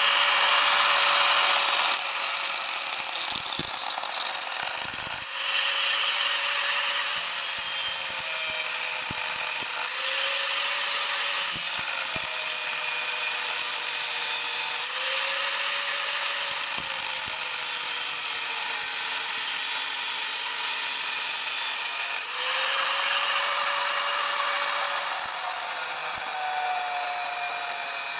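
Electric power tool running on metal: a steady motor whine whose pitch sags and recovers several times as the tool is loaded, over a hiss of cutting or grinding, with a few light knocks.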